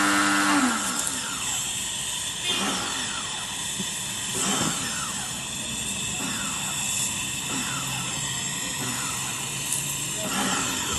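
A power tool's motor running with a steady hum, then winding down and stopping about half a second in, leaving a steady background noise with faint falling sweeps.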